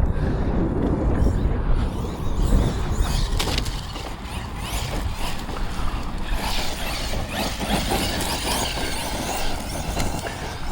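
Arrma Notorious 6S RC monster truck being driven over dirt: the electric motor and drivetrain whining and changing with the throttle, and tyres churning the loose ground.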